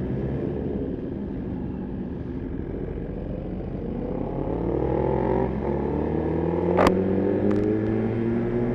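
Suzuki GSX-R1000 inline-four engine pulling away at low revs. Its pitch climbs slowly, dips briefly at a gear change about halfway through, then climbs again. A sharp click sounds a little later.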